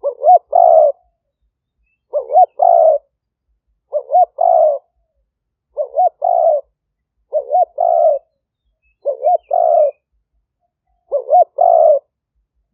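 Spotted dove cooing, a decoy bird's lure call: a phrase of two short notes and a longer third note, repeated seven times about every two seconds.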